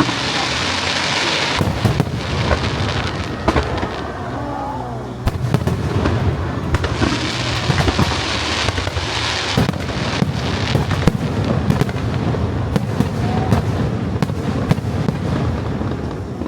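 Fireworks display: aerial shells bursting in a steady run of bangs, with two stretches of dense crackling hiss, one near the start and one about halfway through.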